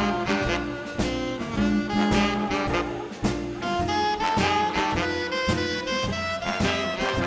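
Live swing band playing, with saxophone and brass lines over upright bass and drums keeping a steady beat.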